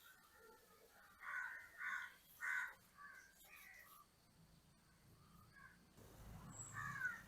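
Crows cawing: three loud caws in quick succession about a second in, with fainter calls before and after.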